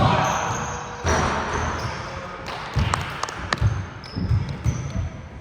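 A basketball being dribbled on a court floor, a string of bounces at an uneven pace, over a murmur of background voices.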